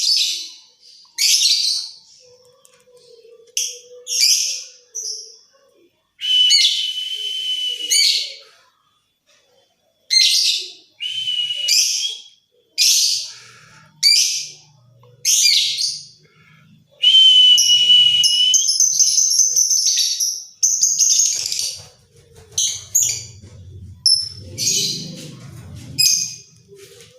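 Lovebird giving shrill, repeated screeching calls: short bursts and a few long drawn-out chattering calls of two to three seconds. A low rumble comes in under the calls near the end.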